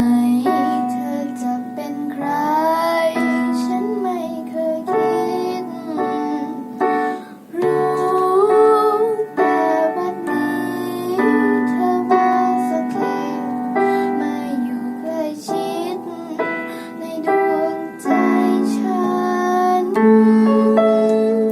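Music: a voice singing a melody over keyboard accompaniment, holding long notes and sliding between pitches.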